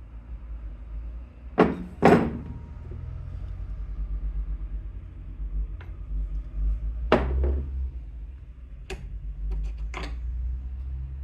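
Tools and parts being handled during a scooter engine rebuild: a series of sharp knocks and clacks, the two loudest close together about two seconds in and others scattered through, over a steady low rumble.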